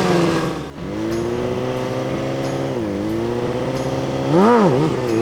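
Sport bike engine running at a steady pitch, dipping briefly about a second in and again around three seconds, then a quick rise and fall in revs near the end.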